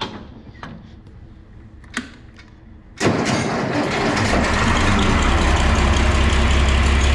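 An engine starts about three seconds in and runs loudly and steadily, with a deep rumble building over the next second.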